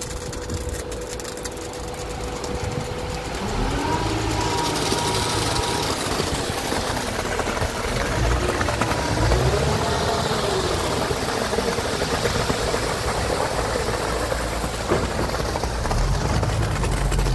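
A motor vehicle's engine running, with a whine that rises and falls several times between about three and ten seconds in.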